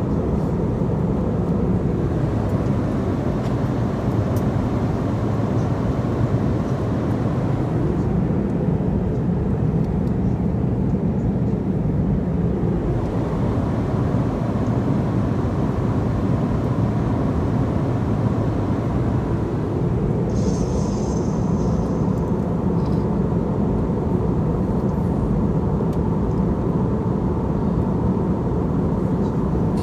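Airliner cabin noise in flight: a steady, even drone of engines and airflow, deepest in the low range, with a faint thin tone above it. A brief higher hiss joins about two-thirds of the way through.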